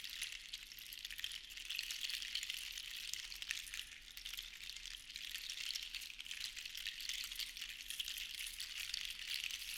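Seashells rattling together in a shaker, a dense patter of tiny clicks that swells and ebbs slowly as it is shaken.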